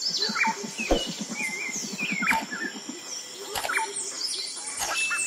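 Several birds chirping and calling in short notes that glide up and down, over a fast low rattling pulse through the first three seconds and a few sharp knocks.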